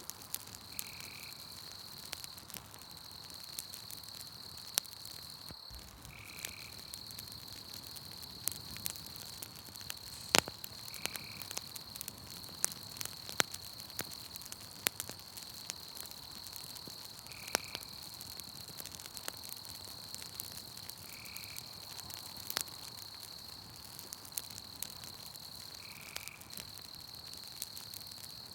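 Wood campfire crackling with frequent sharp pops, over a steady high insect trill and a brief animal call repeating every few seconds.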